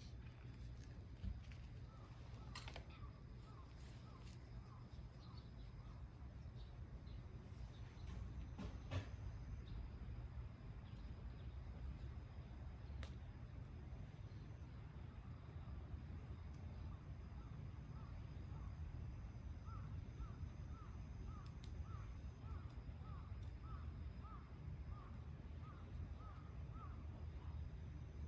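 Dusk outdoor ambience: a high-pitched insect chorus pulsing steadily, with runs of short repeated calls about twice a second, over a low rumble, and a couple of brief sharp pops.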